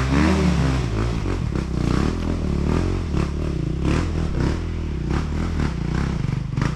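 Sherco 300 two-stroke enduro motorcycle engine revving up and down repeatedly as it is ridden slowly through rough ground, with scattered knocks and clatter.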